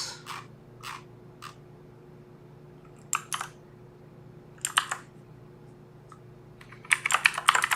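Computer keyboard: a few scattered key clicks, then rapid continuous typing starting about seven seconds in.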